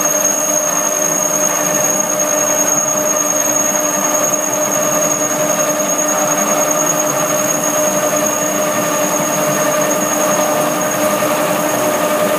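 Amec OP4-1S-50M core drill cutting stainless steel 316, enlarging a 74 mm hole to 125 mm: a loud, steady cutting sound with a squeal.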